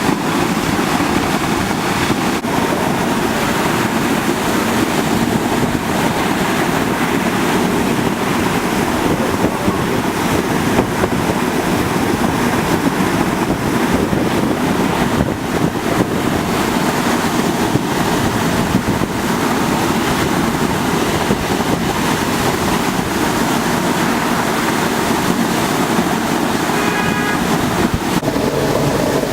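Water gushing from a sheared fire hydrant: a loud, steady rushing.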